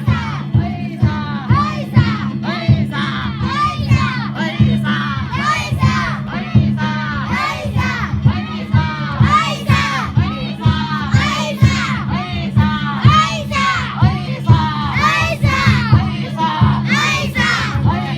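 Danjiri festival music: taiko drums and hand gongs beaten in a fast, continuous rhythm, with a crowd of pullers shouting and chanting over it.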